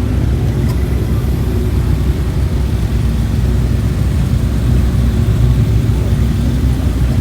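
Car engines running steadily at low revs, a continuous rumble with a steady hum.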